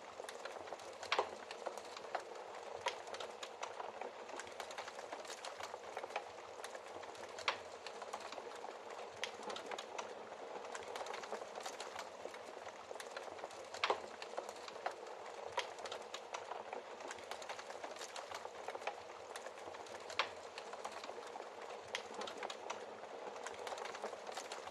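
Wood fire crackling in a fireplace: a steady hiss of small crackles with a louder pop every few seconds.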